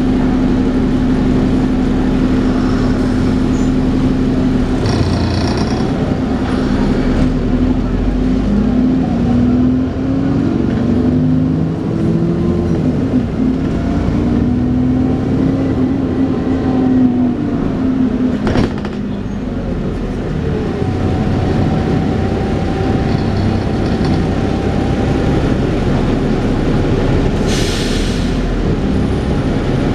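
Dennis Trident 2 double-decker bus heard from on board, its drivetrain running with the whine bus enthusiasts call 'hoovering'. The whine climbs and falls in steps through the middle as the bus pulls away and changes gear. There is one sharp knock near the end of that stretch.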